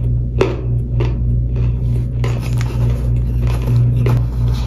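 Close-up crunching and chewing of toasty powder chunks: crisp crunches about twice a second, uneven, over a steady low hum.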